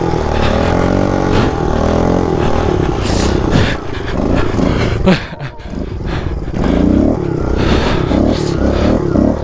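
Small single-cylinder pit bike engine revving up and down as it is ridden hard, pitch rising and falling repeatedly. About five seconds in there is a sharp knock, and the engine drops off briefly before revving again.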